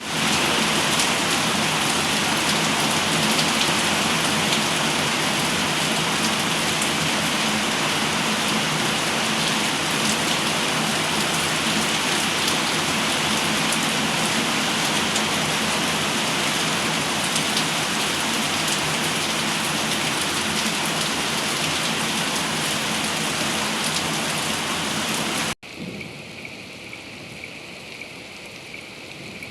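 Heavy rain falling, a dense steady hiss of drops. About 25 seconds in it cuts off abruptly to a quieter, lighter rain sound.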